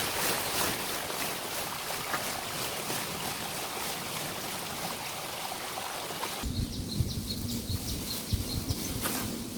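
Steady rain falling, an even hiss. About two-thirds of the way through the sound changes abruptly to a duller, lower mix with scattered low knocks and a faint steady hum.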